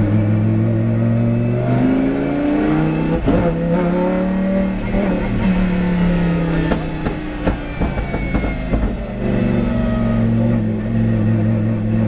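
Lamborghini Huracán GT race car's 5.2-litre V10 running hard on track. It holds steady, climbs in pitch about two seconds in, then winds down in several steps with sharp pops and clicks through the middle, and settles to a steady note again near the end.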